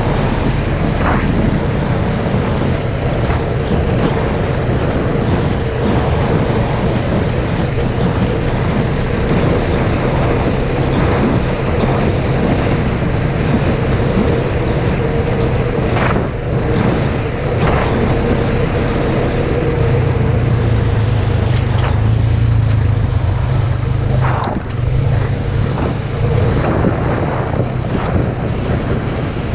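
Polaris RZR side-by-side engine running steadily while driving, getting a little louder for a few seconds past the middle, with a few sharp clacks from the ride.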